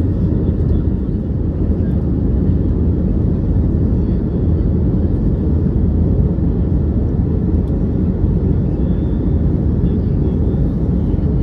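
Steady low rumble of engine and airflow noise inside the cabin of an Airbus A321neo airliner in flight.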